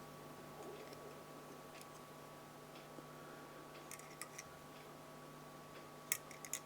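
Faint, scattered clicks and ticks of small fly-tying tools being handled, with two sharper clicks near the end, over a steady low hum.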